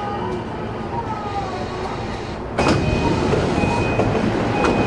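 E233 series 5000 electric train heard from inside the car, its faint motor whine falling as it draws to a stop. About two and a half seconds in, the doors open with a sudden rush of louder noise, and a short high chime tone repeats about once a second.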